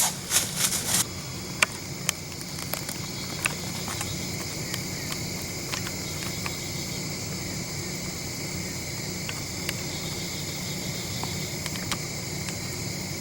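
Steady evening chorus of crickets and other insects, an even high-pitched trill that holds unchanged throughout. A few light clicks come in the first second, with occasional faint ticks after.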